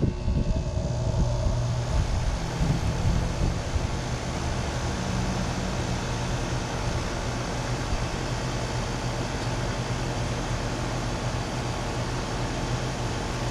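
Outdoor condensing unit of a new 5-ton, 14 SEER Guardian central air conditioner running just after starting up: the compressor's steady hum under the rush of air from its Broad Ocean condenser fan, with some uneven low rumble in the first couple of seconds before it settles.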